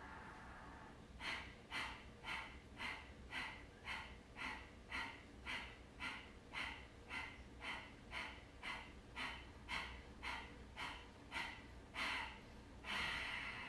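Kapalabhati breathing: the end of a slow inhale, then about twenty short, forceful exhales through the nose, roughly two a second, with each breath in taken passively. Near the end comes one longer, forceful exhale that squeezes the air out of the lungs.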